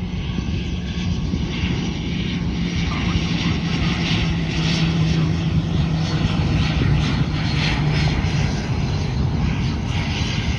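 Twin-turboprop airliner on final approach to land: a steady propeller hum over the rush of its engines, a little louder in the middle as it passes.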